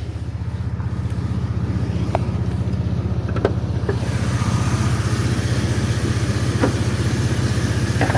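Car engine idling with a steady, even low rumble that grows slightly louder, with a few faint short chirps over it.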